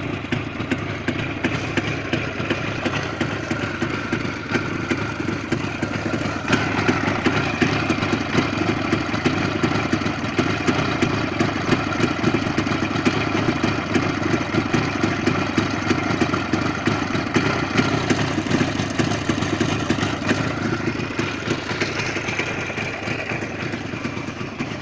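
IZh Jupiter 5 motorcycle's two-stroke twin-cylinder engine running with a rapid, even firing beat. It picks up speed about six seconds in, holds there, then settles back toward idle near the end.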